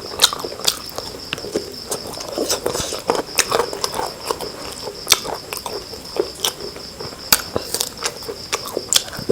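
Close-up eating sounds: chewing and lip-smacking, heard as irregular wet clicks. A faint steady high-pitched whine runs underneath.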